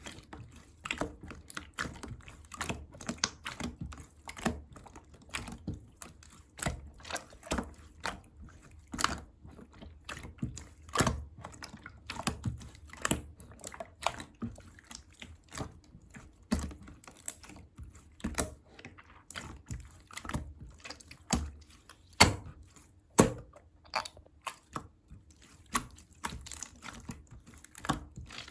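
A close, irregular run of short sharp clicks and soft wet pops, several a second, with a few louder snaps.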